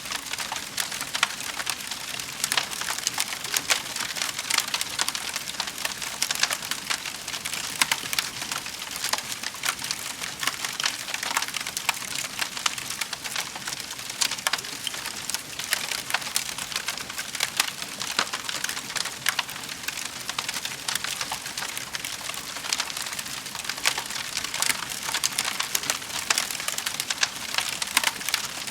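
Fireplace fire crackling continuously, with frequent sharp pops and snaps over a steady hiss.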